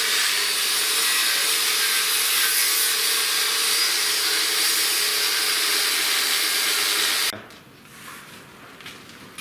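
Power tool cutting: a steady, loud hiss over a faint motor hum that stops abruptly about seven seconds in.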